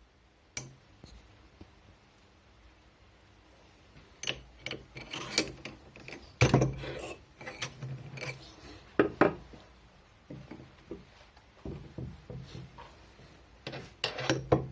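Wood being worked by hand: irregular scraping rubs and light knocks on wood, coming in clusters from about four seconds in, the loudest about six and a half seconds in. There is no steady motor sound.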